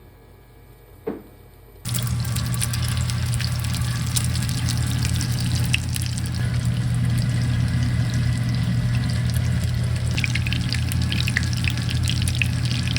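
A tap turned on, with water running steadily into a sink from about two seconds in, after two short clicks.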